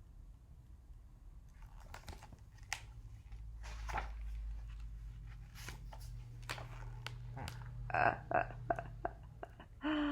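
Paper rustling and crinkling, with scattered short clicks, as the pages of a picture book are handled and turned, over a low steady room hum.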